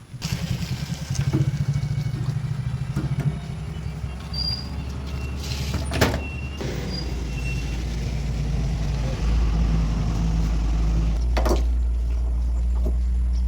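Heavy diesel engine running steadily, its low rumble growing louder about nine seconds in, with two sharp knocks, one midway and one near the end.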